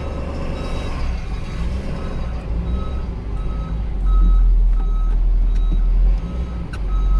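Snow-plow truck's engine running, with its backup alarm starting to beep a couple of seconds in, about three beeps every two seconds, as the truck reverses. The engine gets louder about four seconds in.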